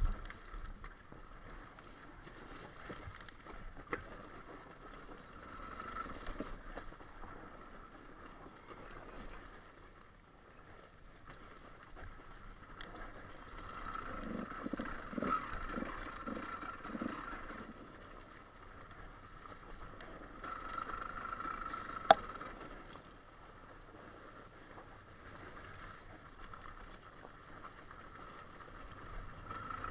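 Trail motorcycle engine running at low revs, swelling and fading as the throttle changes, with a single sharp click about 22 seconds in.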